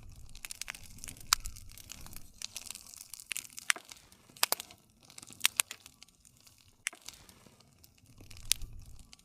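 Campfire of burning wood crackling: a continuous run of sharp pops and snaps over a low rumble of flame, with a handful of louder pops scattered through.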